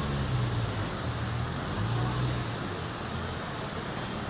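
Street noise: a motor vehicle's low engine hum over a steady hiss, the hum fading out about halfway through.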